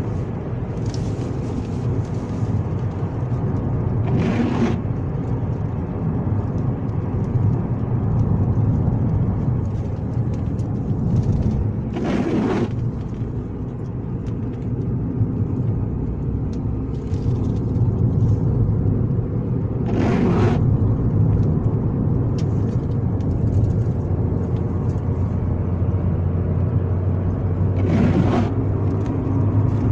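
Alfa Romeo 916 Spider's 2.0 16-valve Twin Spark four-cylinder engine running steadily as the car is driven, with a brief swish about every eight seconds.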